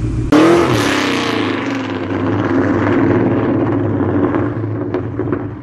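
Ford Mustang engine through a Borla ATAK cat-back exhaust, jumping suddenly to a loud run about a third of a second in, then holding steady and easing off, fading near the end.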